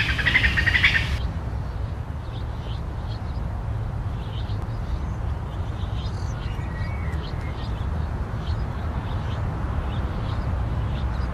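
Faint, scattered short bird chirps over a steady low rumble. A loud, harsh burst of sound fills the first second.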